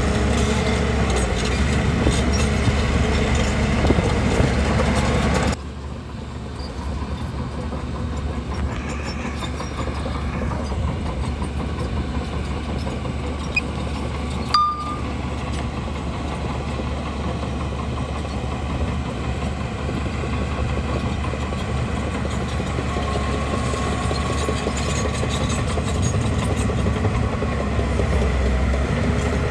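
Crawler bulldozer working: diesel engine running steadily with steel tracks clanking. The sound drops abruptly to a lower level about five seconds in. A short sharp click comes about halfway through.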